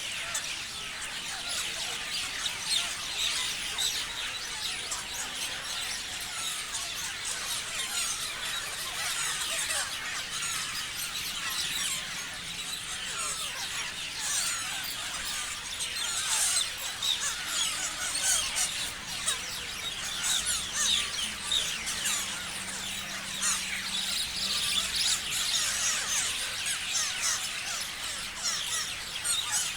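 Many parrots chirping and squealing at once: a dense, unbroken chatter of short high calls overlapping throughout.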